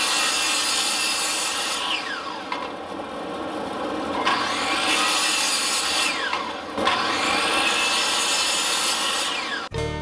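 Power saw cutting wood, three cuts, each followed by a falling whine as the motor winds down. Acoustic guitar music starts abruptly near the end.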